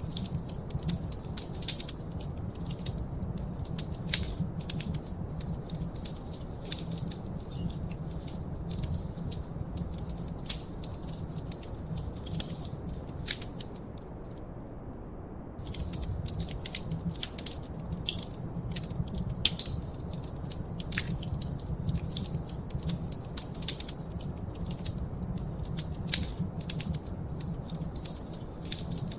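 Wood fire crackling in a fireplace: a steady stream of sharp pops and snaps over a low rumble of flame. About halfway through, the crackling drops out for a second or so, then resumes.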